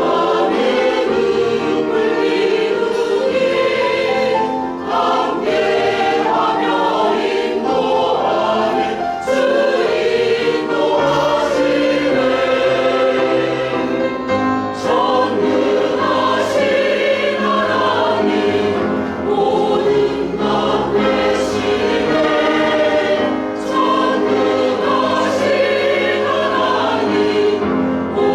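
Church choir singing a hymn in parts, with sustained chords and held bass notes underneath.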